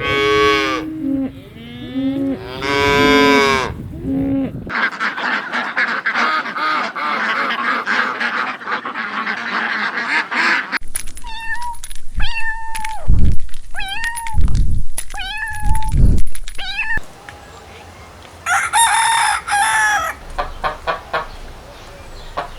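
A run of farm animal calls in short separate clips, mostly ducks and geese calling, with a dense flock chorus in the middle and repeated single calls after it.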